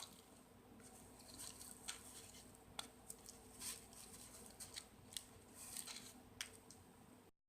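Birdseed crackling faintly as a peanut-butter-coated cardboard tube is rolled through it on a plate: scattered small clicks and rustles. The sound cuts off suddenly near the end.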